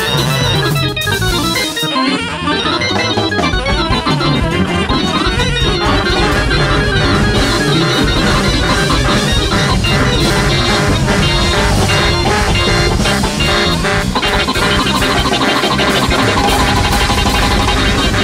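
Live jazz big-band music. A keyboard playing an organ sound leads at first, then bass and drums come in about three to four seconds in and the full band plays on.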